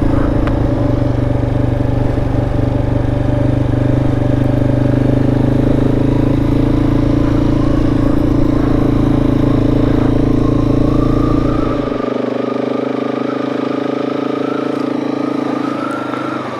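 Motorcycle engine running steadily, a deep rumble that drops away abruptly about twelve seconds in, leaving a lighter, higher engine sound.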